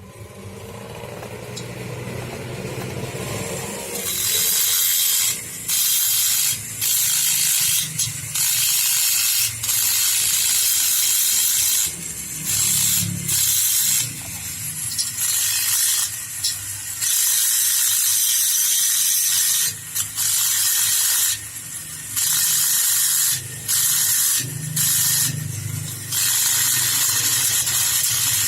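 A power grinder spins up over the first few seconds and then runs steadily, with repeated loud hissing grinds as the bit is pressed against the metal of the Vespa engine block and lifted off again.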